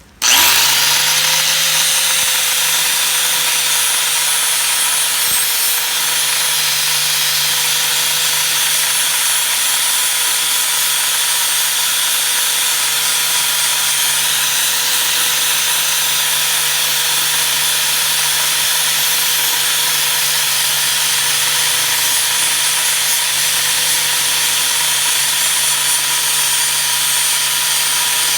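Angle grinder starting abruptly and running steadily for a long stretch, its motor pitch rising as it spins up in the first second and then holding, with a bright hiss over it.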